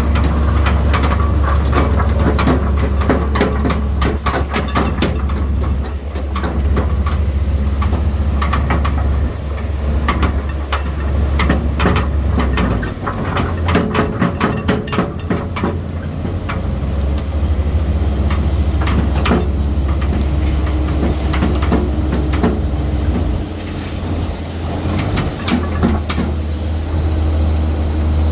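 A Caterpillar 320C excavator's six-cylinder diesel engine running under varying load, with frequent metallic clanks and knocks over the steady engine drone.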